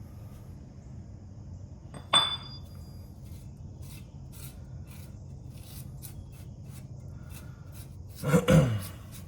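Hand work on metal parts and tools: a sharp metallic clink that rings briefly about two seconds in, then a run of light clicks and scrapes, and a louder scraping clatter near the end, over a steady low hum.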